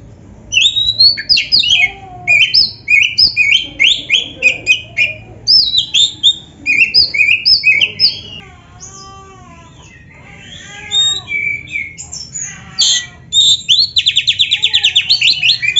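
Black-breasted Oriental magpie-robin (kacer) singing: a rapid run of loud, varied whistled phrases, a quieter stretch of lower slurred notes a little past the middle, then a fast trill near the end. It is a full song studded with phrases borrowed from other birds.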